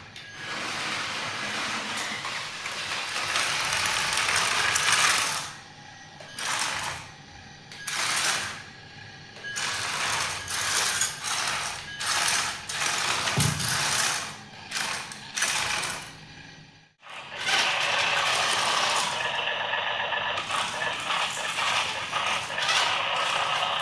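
Small electric motors and gearboxes of radio-controlled toy construction machines whirring in stop-start bursts. About two thirds of the way through they cut out for a moment, then a steadier whir carries on.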